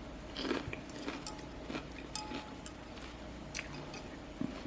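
A person chewing food close to the microphone: soft crunches and small mouth clicks, scattered irregularly.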